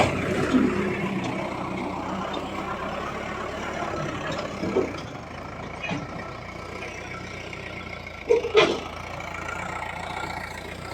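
The diesel engine of a John Deere 5050 D tractor running steadily, with a short louder sound about eight and a half seconds in.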